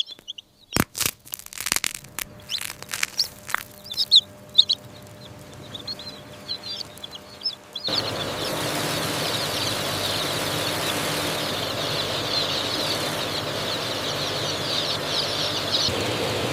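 Chickens calling: for the first eight seconds, scattered squawks among sharp clattering knocks; then, from about eight seconds in, a steady din of many birds calling together.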